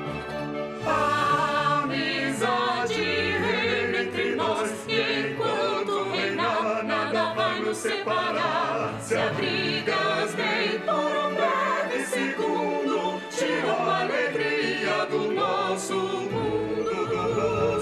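A choir of voices singing a song over an instrumental accompaniment, with wavering held notes.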